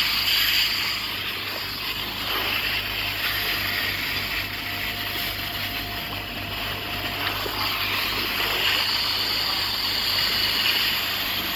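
Steady rushing hiss of pressurised air being discharged from a car's air-conditioning system after a leak test.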